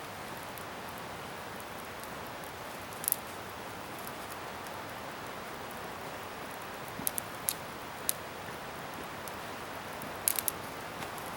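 Scrap-wood bonfire burning with a steady hiss and sharp crackles from the wood, the pops coming singly a few seconds apart and in a quick cluster near the end.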